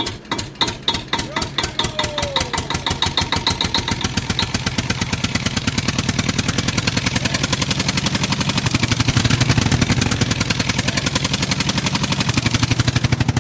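Tractor engine starting and running, its exhaust beats coming a few a second at first and quickly speeding up into a fast, steady chug.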